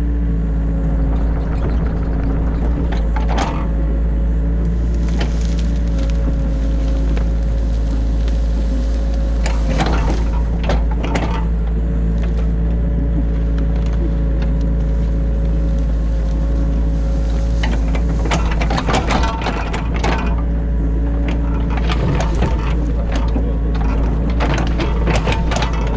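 New Holland E50.2 mini excavator heard from inside the cab, its diesel engine and hydraulics running steadily. The bucket scrapes and knocks against the ditch several times, with a quick run of cracking and knocking near the end.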